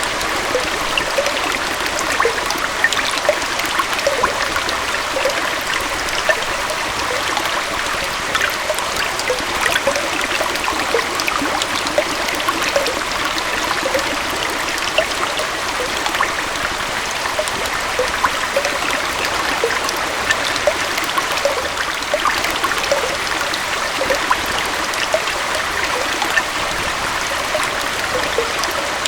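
Gentle waterfall running steadily: an even rush of falling and flowing water, light in bass, dotted with many small splashes and bubbles.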